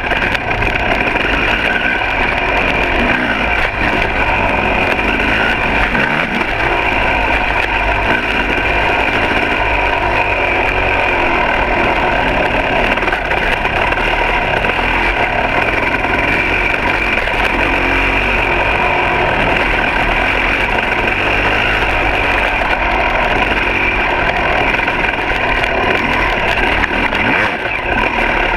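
2006 KTM 300 XC's two-stroke single-cylinder dirt bike engine running steadily at a fairly constant pitch while riding.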